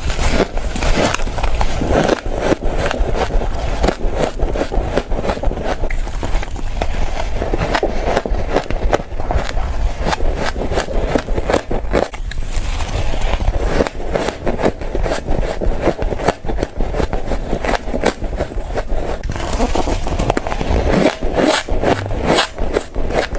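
Fast, continuous crunching of frost ice being bitten and chewed: many crisp crunches in quick succession with hardly a pause.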